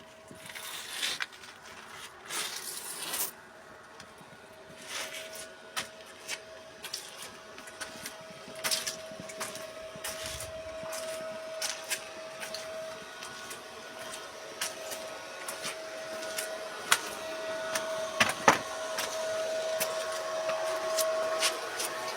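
A steady mechanical hum with many scattered clicks and knocks, one loud knock coming near the end.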